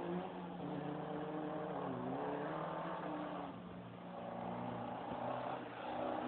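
Toyota KE30 Corolla's engine revving on a khanacross run. The revs dip about two seconds in, climb back, and rise again near the end as the car works through the course.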